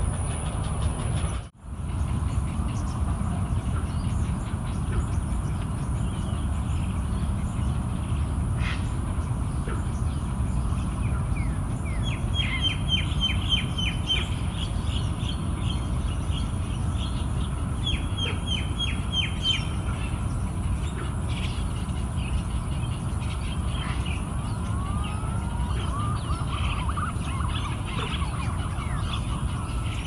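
Outdoor ambience: a steady low rumble with wild birds calling over it, two runs of quick, high chirps and later some sliding, rising-and-falling calls.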